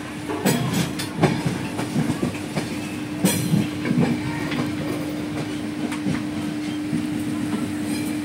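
Passenger train wheels running over the rails, heard from aboard the moving coach: irregular clicking and clacking over rail joints above a steady low hum.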